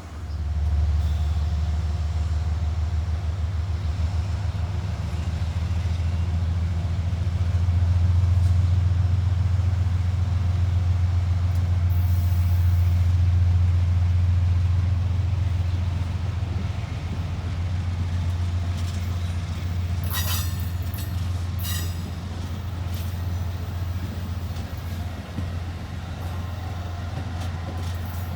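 Amtrak train at the station, its diesel locomotive running with a deep, steady rumble that swells about a third of the way in and then slowly eases off. A few brief high squeals from the wheels or brakes come through about two-thirds of the way in.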